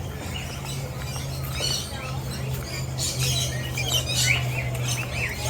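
A flock of small aviary birds chirping and squawking, many short calls overlapping, busiest in the second half. A steady low hum runs underneath.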